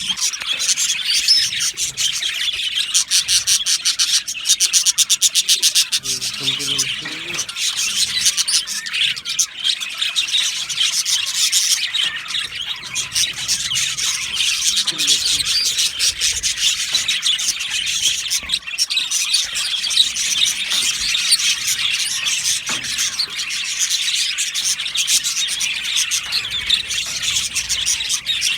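A colony of budgerigars chattering and warbling without pause, a dense mix of chirps and trills, with a run of fast clicking chatter a few seconds in.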